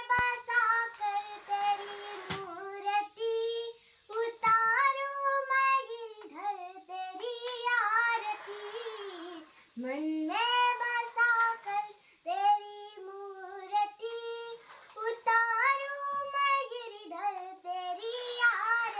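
A ten-year-old girl singing a Hindu devotional song, a single high child's voice holding and bending long melodic notes.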